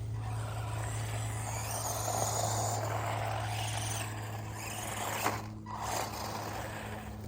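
Redcat Volcano 1/16-scale RC car running over the ground, its electric motor and tyres making a shifting noise over a steady low hum. A single sharp knock comes about five seconds in.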